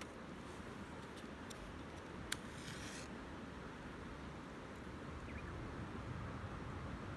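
Wood campfire crackling faintly, with a few sparse pops and one sharper pop about two seconds in, over a steady low rumble.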